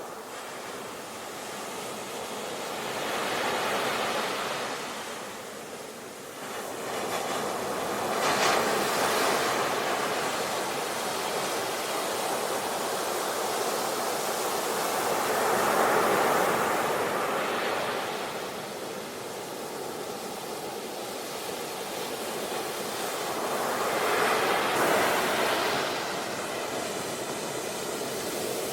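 Sea waves breaking and washing in, a steady rush of surf that swells four times: about 4 seconds in, around 8 to 10 seconds, around 16 seconds and around 25 seconds.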